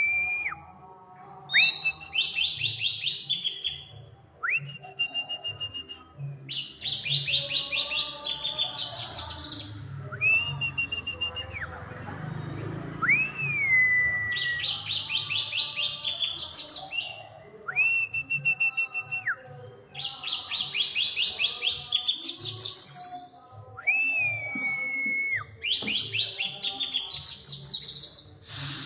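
Oriental magpie-robin (kacer) in full song: a clear, drawn-out whistle alternating with a rapid chatter of fast high notes, the phrase pattern repeated over and over.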